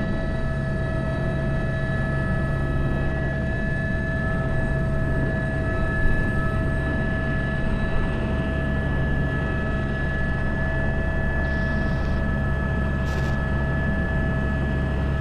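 Airbus H125 single-turboshaft helicopter in flight, heard from the cockpit: a steady turbine and gearbox whine of several fixed tones over constant low rotor noise.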